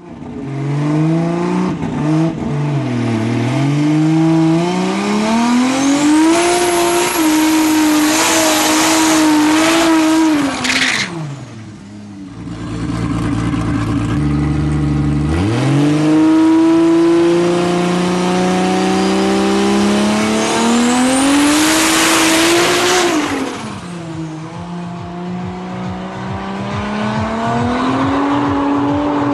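Drag race car engine revving hard twice, its pitch climbing for several seconds and dropping away each time, with a harsh hiss over the top during each high-rev stretch. Between and after the pulls it settles into a lumpy, rapidly pulsing idle.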